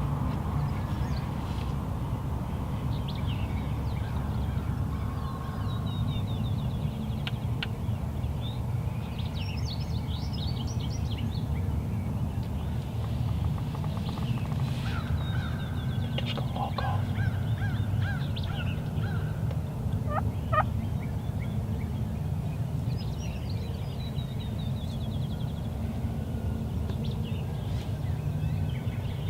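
A wild turkey gobbling a couple of times midway through, among scattered songbird chirps, over a steady low rumble.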